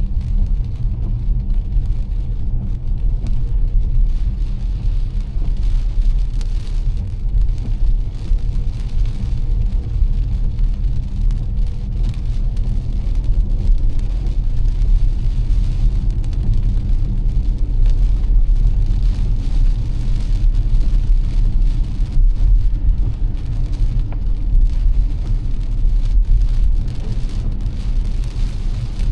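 A car driving on wet road in heavy rain: a steady low rumble of road and tyre noise with a fainter hiss of rain and occasional light ticks.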